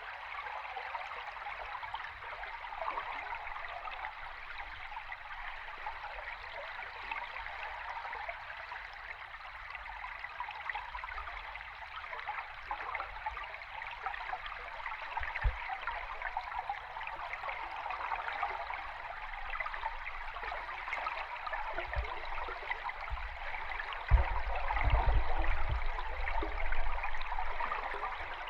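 Flowing stream water recorded underwater: a steady bubbling rush, with a few low thumps in the second half and a louder patch of deep thumping about three quarters of the way through.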